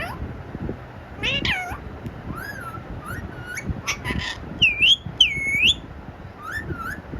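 Parrot giving a string of short, high-pitched, meow-like calls that rise and fall, mimicking a cat. The two loudest are dipping, whistled calls about five seconds in.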